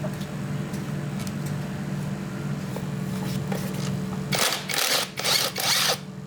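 A steady machine hum, joined about two-thirds through by three or four short bursts of noise.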